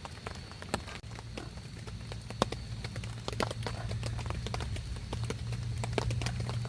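Irregular raindrops tapping, sharp and uneven, over a steady patter of rain, with a low steady hum coming in about a second in.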